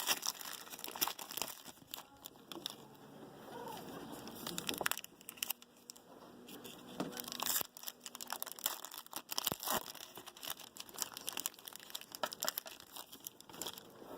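Foil trading-card pack wrappers crinkling and tearing, with cards being handled and shuffled in short, irregular rustles and clicks.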